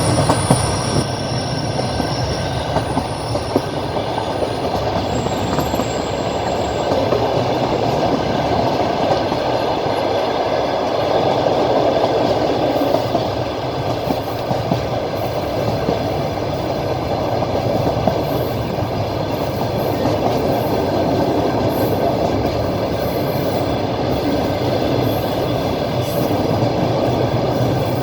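Passenger train running along the line, heard from a carriage window: a steady rolling rumble with the clickety-clack of the wheels over the rail joints.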